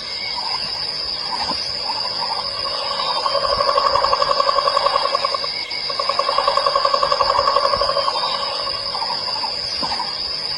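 Tropical rainforest insect chorus: a steady high-pitched drone, joined in the middle by a fast pulsing animal call at about seven pulses a second, heard in two stretches with a short break between them.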